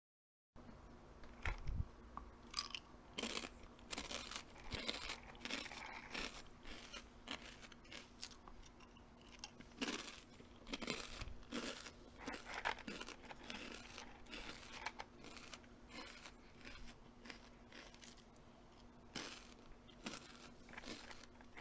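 Close-up eating sounds: irregular crisp crunches and chewing, with a faint steady hum underneath.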